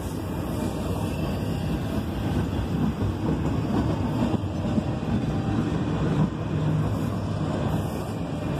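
Freight train of container-carrying intermodal well cars rolling past: a steady low rumble of steel wheels on the rails.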